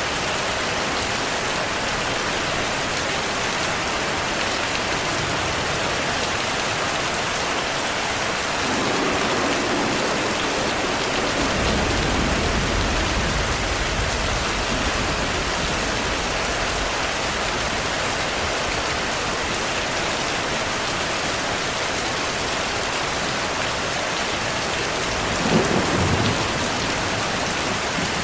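Heavy rain falling steadily, with thunder: a long low rumble rolls in about a third of the way through, and a sharper thunderclap with rumble comes near the end.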